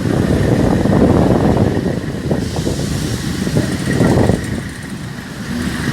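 Train running, a steady heavy rumble.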